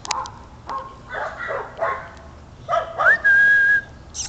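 A person whistles once to call a dog, about three seconds in: a quick rising note that levels off and is held steady for about half a second. Fainter short sounds come before it.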